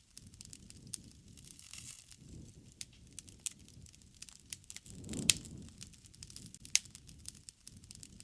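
Wood campfire crackling, with irregular sharp pops and snaps over a low rustle of flame. The flame swells briefly about five seconds in, with a loud pop at its peak, and another sharp pop comes about a second and a half later.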